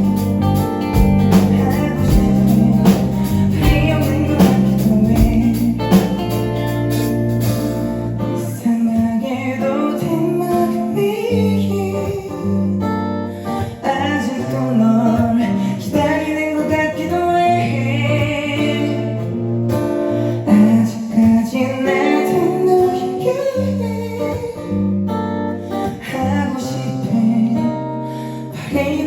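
A live band performing a song: a voice singing over guitar. About eight seconds in, the bass and drums drop out, leaving the voice and guitar.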